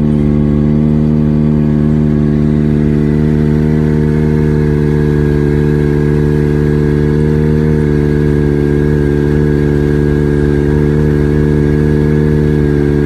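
Kawasaki ZX-25R's 250 cc inline-four engine running steadily at a constant engine speed, the pitch holding the whole time.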